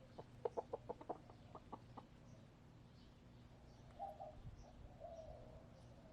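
Hen clucking: a quick run of about ten short clucks in the first two seconds, then a longer, softer low call about four seconds in. Faint chirps of wild birds in the background.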